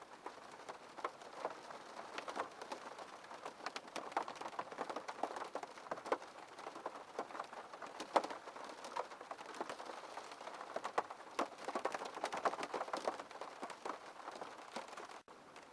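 Rain on a window pane: a dense, irregular patter of small ticks over a steady hiss, with a momentary break in the sound near the end.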